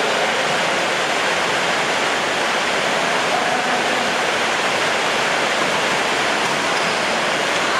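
Heavy rain pouring down, a steady dense hiss without let-up.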